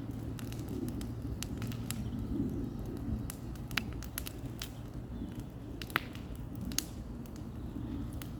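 Bonfire of cut brush crackling, with irregular sharp pops over a steady low rumble.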